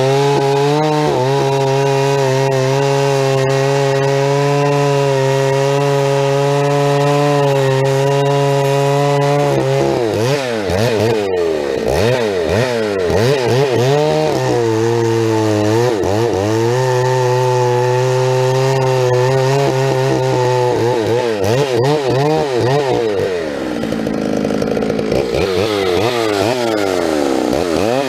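Two-stroke chainsaw running hard while bucking firewood: a steady high pitch at first, then about ten seconds in the engine note begins wavering up and down as the chain loads and frees in the cut. It sinks lowest a little before the end, then comes back up to a steady high pitch.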